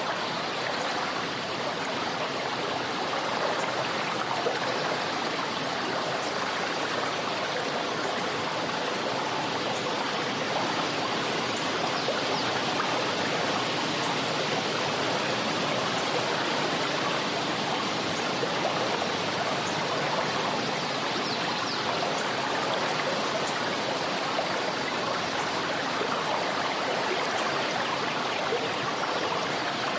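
A river running steadily, a constant rush of flowing water with small splashes and gurgles through it.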